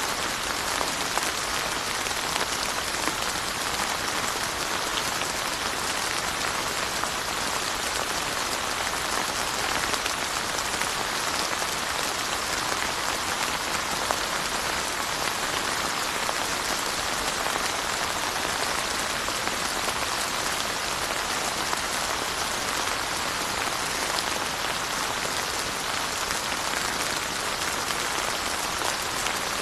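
Steady rain falling, an even hiss of many small drops that does not let up or change.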